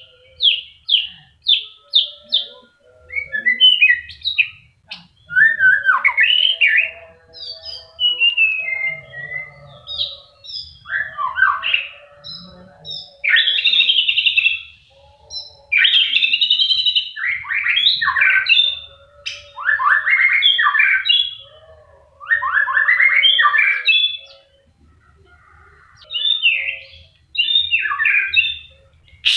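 White-rumped shama singing a varied song: a quick run of short whistled notes at the start, then rich phrases of fast, falling whistles, broken by short pauses.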